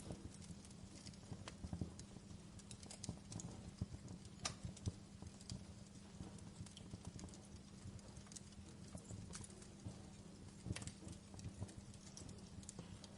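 Wood fire crackling in a fireplace: irregular small pops and snaps at uneven intervals over a steady low rumble.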